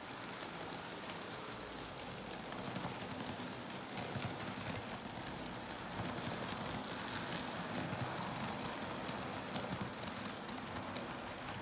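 N scale model train (Athearn F59 locomotive pulling five Bombardier coaches) running on track: a steady crackling rattle of small wheels on the rails, full of fine clicks, a little louder from about four seconds in.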